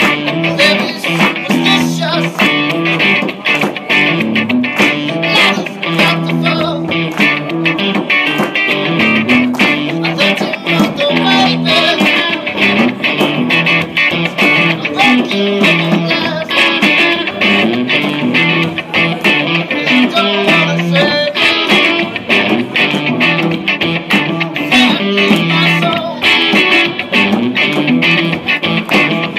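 Guitar-led band music played live, with fast steady strumming or picking and no singing.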